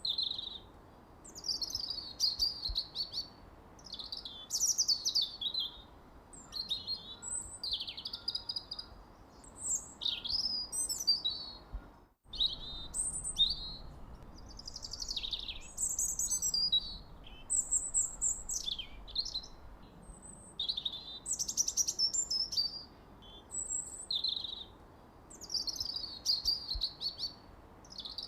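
Songbirds chirping and singing in quick, high-pitched phrases that follow one another almost without pause, several calls overlapping. About twelve seconds in, the sound drops out for a moment.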